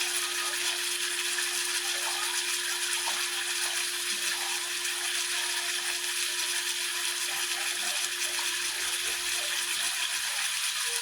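Ribeye steak frying in a pan, a steady crackling sizzle. A low steady hum under it fades out about seven seconds in.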